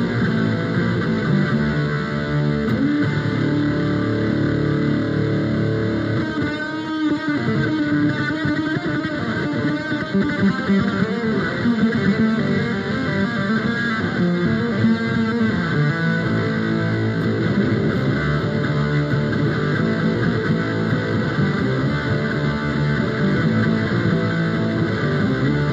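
Instrumental guitar music: electric guitar playing continuously over a bass line.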